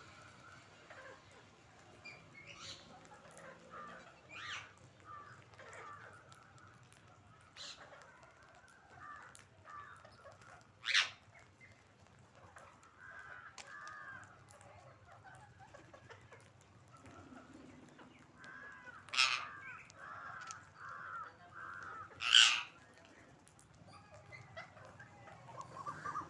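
Parrots calling: scattered softer chattering calls broken by a few short, loud screeches, the loudest three spread through the second half.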